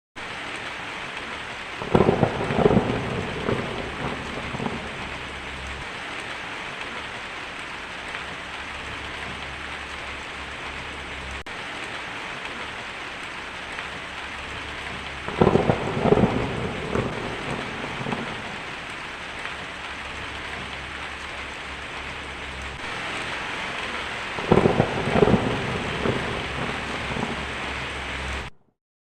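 Heavy rain drumming steadily on a tin roof, with three rolls of thunder: one about two seconds in, one near the middle and one near the end, each a loud crack trailing off over a few seconds. The sound cuts off suddenly just before the end.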